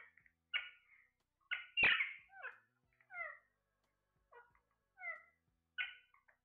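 A parrot giving a series of short, squawky calls, several sliding down in pitch, with the loudest about two seconds in.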